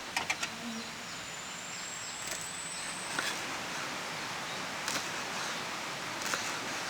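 Steady rushing of a nearby stream, with a quick cluster of sharp clicks right at the start and single clicks about three, five and six seconds in. A faint, thin, high tone rises slightly during the first few seconds.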